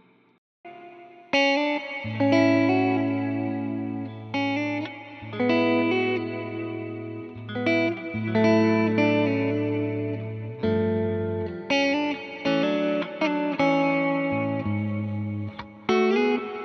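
Electric guitar played through a Line 6 modeler's Vox AC30 amp model and a cabinet impulse response. After a short silence, the guitar comes in about a second in with a series of struck chords, each left to ring, over a sustained low note.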